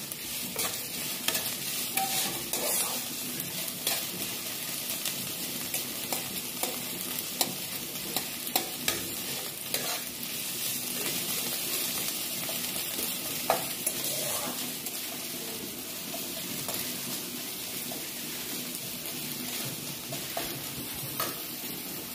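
Chopped onions and green chillies sizzling in hot oil in a wok, with a metal spatula scraping and clicking against the pan as they are stirred and sautéed.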